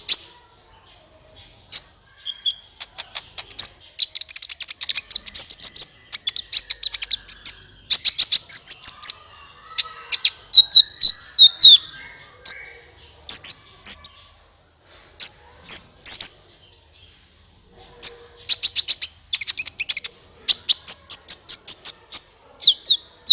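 Kolibri ninja sunbird song used as a lure call: loud, rapid high-pitched chirps and trills in bursts of a second or two, with short pauses between them.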